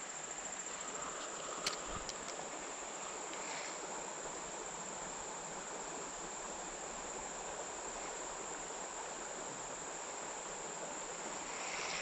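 Insects trilling in one steady high-pitched tone over the even rush of a creek, with a few light clicks about two seconds in.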